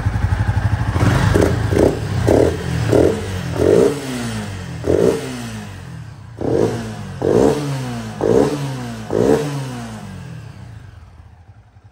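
Honda CB250 Twister's air-cooled single-cylinder fuel-injected engine, just started, revved in about ten quick throttle blips, each rising and falling back, then settling to idle and fading near the end. It breathes through a BMB pod air filter fitted straight onto the throttle body in place of the stock airbox.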